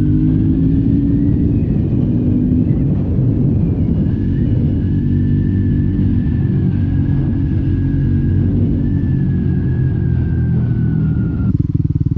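Triumph Scrambler 400X single-cylinder engine through its stock exhaust under way off-road. The revs rise at the start, then hold a steady pull with a thin whine above the engine note. Near the end it drops to a lower, pulsing off-throttle note.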